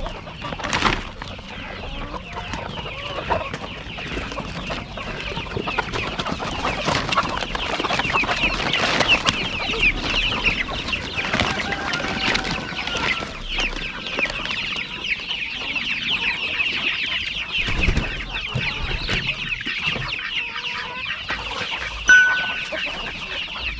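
A flock of chickens, country-type meat birds, clucking and calling over one another in a continuous dense chatter as feeding time comes. A short, sharp sound stands out near the end.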